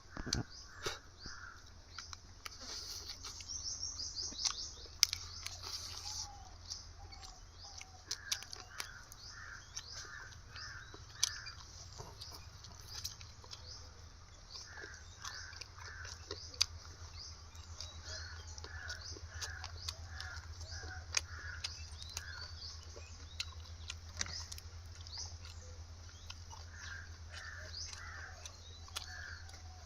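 Birds calling: one bird repeats a run of four to six short, evenly spaced notes every few seconds, over a constant chatter of high chirps. Scattered sharp clicks and a steady low hum run underneath.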